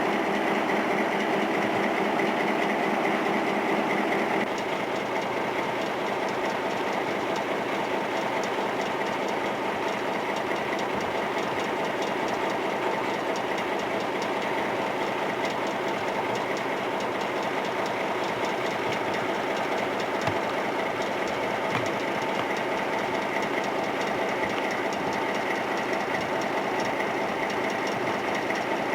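Diesel locomotive engine running steadily with a fast, even pulse. The sound drops a little in level about four seconds in.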